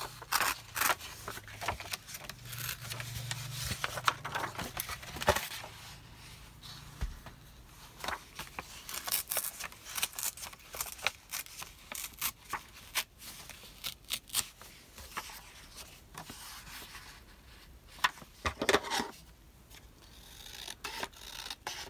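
Paper being cut with scissors and torn by hand, with rustling and handling: a scattered run of short snips, rips and scrapes with pauses between them.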